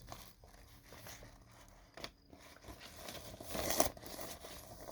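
Handling noise as a vinyl record and its paper and cardboard sleeves are moved about: soft rustling, scraping and small clicks, with a louder rustle about three and a half seconds in.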